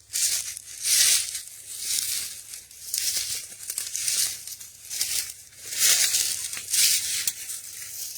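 Footsteps through dry leaf litter and brush, a crackling crunch at roughly one step a second.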